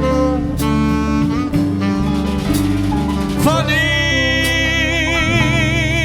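Live jazz combo of drums, piano, bass, guitar and saxophone playing a slow ballad with cymbal strokes on the beat. About halfway in, a singer comes in and holds one long note with a wide vibrato.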